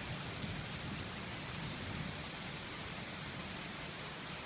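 Steady heavy rain falling, an even hiss with faint scattered patters of drops.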